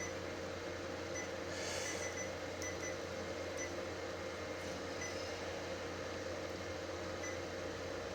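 Air-conditioning unit running with a steady hum and a faint steady tone. A few faint short beeps are scattered through, and a brief hiss comes about two seconds in.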